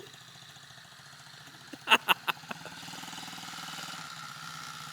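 SSR 110 pit bike's small single-cylinder engine running at low speed, growing louder from about three seconds in. A quick run of four sharp clicks comes about two seconds in.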